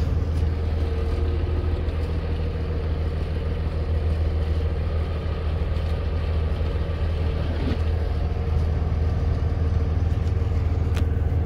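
Semi truck's diesel engine running steadily at low revs, heard from inside the cab while the truck reverses slowly on an icy road. A couple of faint clicks come near the end.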